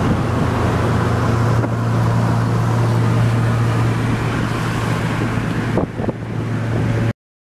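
Car engine droning steadily with road and wind noise, heard from inside the car; the sound cuts off abruptly near the end.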